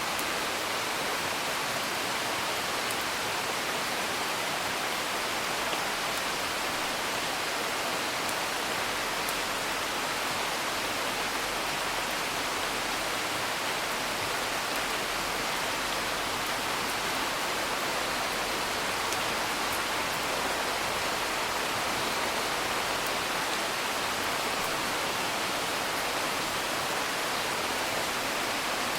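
Steady rain, an even hiss of drops, with a few faint crackles from a wood fire.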